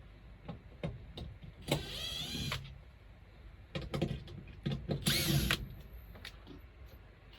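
Cordless power driver running screws in two short bursts, its motor whine rising in pitch as it spins up, with light knocks and handling clicks between.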